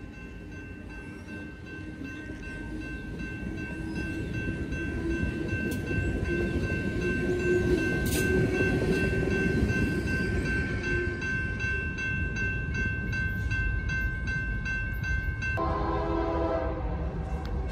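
Amtrak Cascades Talgo passenger train rolling past on the rails: a rumble that builds and holds, with a steady high ringing over it. Near the end it gives way abruptly to a BNSF freight locomotive's air horn sounding several notes at once.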